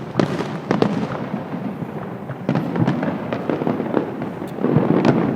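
Aerial fireworks going off in an irregular string of bangs and pops, several a second at times, over a steady background din, with a louder cluster near the end.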